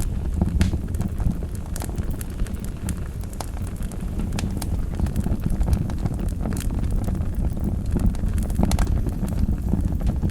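Wood fire burning in a fireplace: a steady low rumble of flames with irregular crackles and pops scattered throughout.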